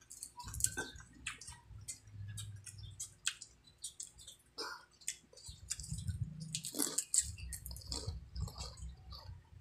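Close-miked chewing and crunching of crispy fried chicken skin, a dense run of irregular sharp crackles.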